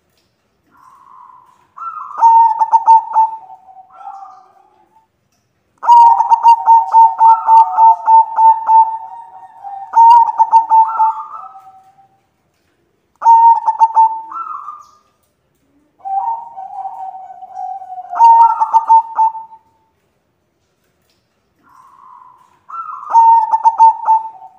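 White zebra dove (perkutut) cooing in repeated phrases. Each phrase is a quick run of clipped, evenly pitched notes ending in a lower drawn-out coo, with one long phrase near the middle.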